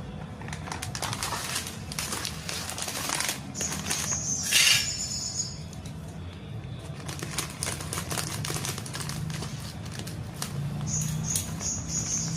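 Pet canary in its cage among seed feed: scattered small clicks and rustles, with short high thin chirps about four seconds in and again near the end. A low steady hum sits underneath.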